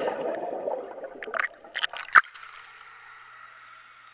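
Pool water churning and settling just after someone jumps in, with a few short sharp splashes between about one and two seconds in, then quieter.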